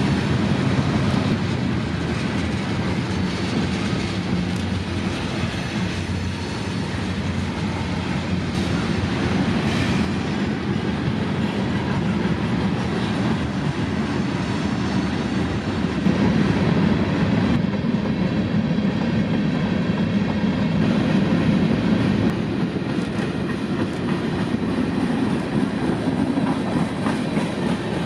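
Freight train rolling past at trackside, the steady rumble of its cars with wheels clicking over the rail joints.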